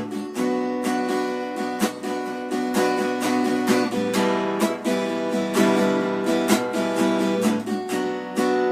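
Acoustic guitar strummed in a steady rhythm with ringing chords: an instrumental passage with no singing.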